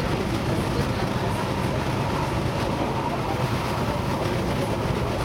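DB Class 420 electric multiple unit running at speed, its steady rolling and running noise heard from inside the passenger car.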